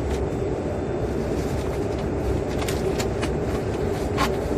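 Steady airplane cabin drone: an even rush of noise with a constant low hum, and a few faint clicks near the end.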